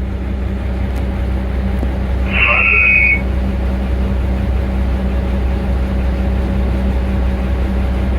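A General Electric 65-ton center-cab locomotive's six-cylinder Cummins diesel engines idling with a steady low hum. A short high-pitched tone sounds over it from about two and a half seconds in, lasting under a second.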